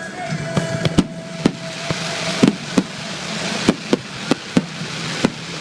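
Fireworks bursting: about ten sharp bangs at irregular intervals over a hiss of crackling that builds through the second half.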